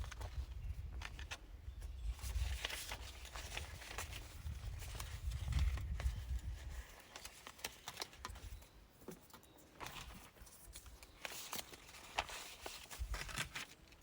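Wind buffeting the microphone: a low rumble that eases off about seven seconds in, with scattered light clicks and rustles throughout.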